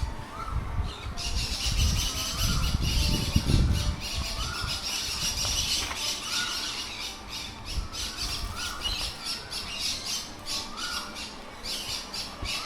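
A flock of aviary birds squawking and chattering, a dense high chatter starting about a second in. A short rising call repeats about every second and a half, and a low rumble sits under the first few seconds.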